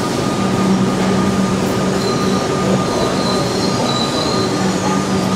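Heritage passenger train at a station platform: a steady rumble and hum, with a thin high squeal from about two to four and a half seconds in.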